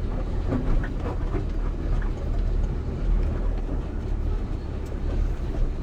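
Dump truck's diesel engine running with a steady low rumble.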